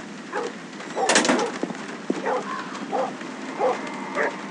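A dog barking repeatedly in short single barks, roughly one every half second to second. There is a louder, noisy crash about a second in.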